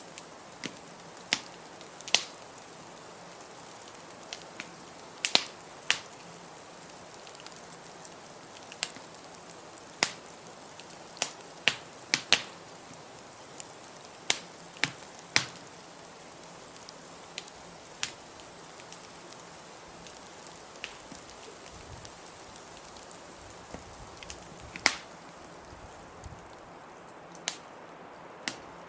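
Wood fire crackling in a fireplace: irregular sharp pops and snaps, a few of them louder, over a steady hiss.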